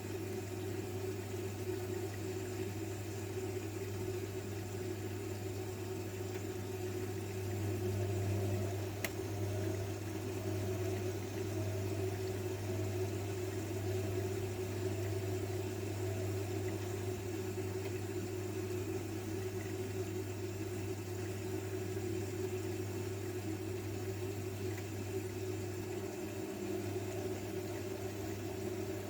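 Zanussi front-loading washing machine running early in a cotton 60° cycle, a steady hum with a faint watery sound. A single sharp click about nine seconds in.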